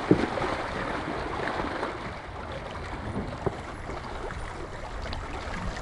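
Steady rushing noise of wind and lake water, with a couple of faint clicks.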